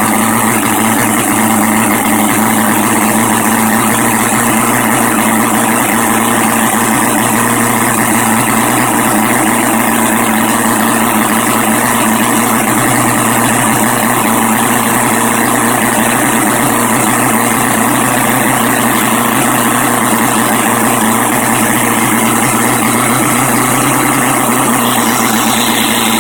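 Four-cylinder four-stroke engine running steadily at a constant speed, with no revving.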